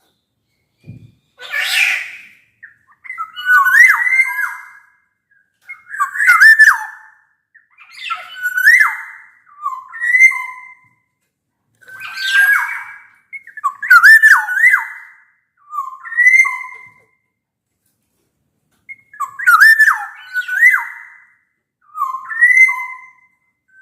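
Black-naped oriole singing: loud, short fluty whistled phrases repeated every second or two. About two seconds in comes a harsher, rasping call.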